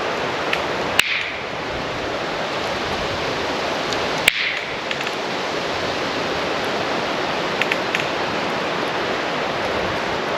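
Campfire burning with a steady rushing hiss, cracking with two sharp pops about three seconds apart, each followed by a short sizzle, and a few faint ticks later on.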